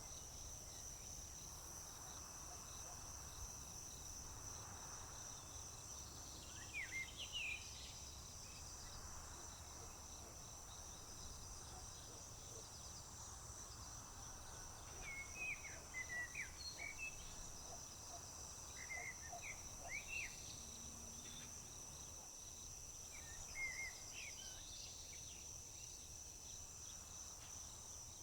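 Crickets trilling in a continuous high, steady drone, with small birds giving short chirping calls in a few brief clusters over it.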